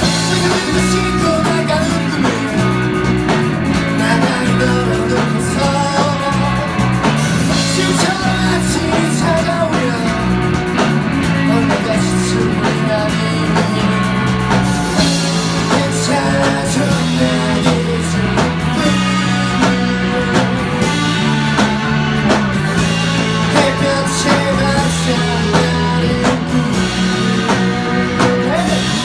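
Rock band playing live: electric guitar and drum kit with a sung vocal line, loud and continuous.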